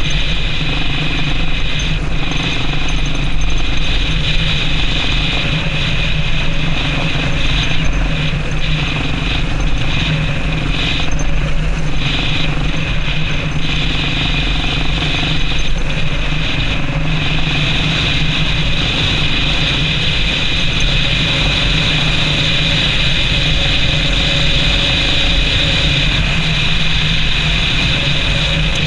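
Yamaha Serow XT225 motorcycle riding at a steady pace, its single-cylinder four-stroke engine running evenly under way, with a constant rush of road and wind noise.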